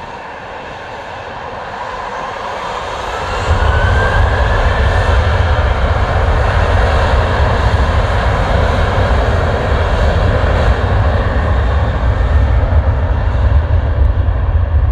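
Airbus A380's four jet engines at takeoff thrust, a loud roar. A whine rises in pitch in the first few seconds, and a heavy deep rumble sets in suddenly about three and a half seconds in and holds.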